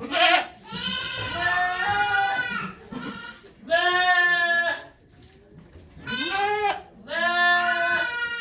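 Goat bleating repeatedly in loud, wavering calls, about five of them, two lasting close to two seconds.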